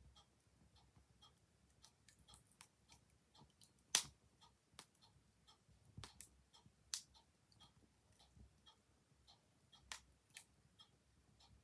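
Clock ticking steadily, about two ticks a second, over a crackling wood fire that gives a few sharp, irregular pops, the loudest about four seconds in.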